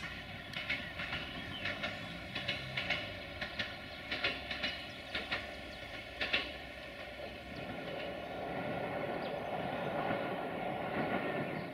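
Siemens Desiro VT642 diesel multiple unit passing, its wheels clicking over the rail joints, often in quick pairs as each bogie crosses. In the last few seconds the clicks give way to a steadier running noise.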